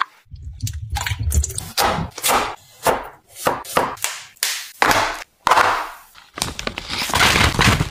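Household items being handled and set down: a quick run of about ten short knocks, taps and rustles, some with a dull thud underneath.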